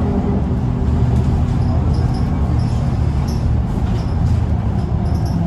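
Scania L94UB bus engine running under way, a steady low drone. Its pitched whine fades out in the first two seconds, leaving the engine and road noise.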